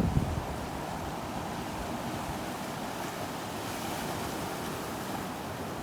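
Ocean surf on a sandy beach: a steady wash of breaking waves that swells slightly in the middle. A low wind rumble on the microphone dies away right at the start.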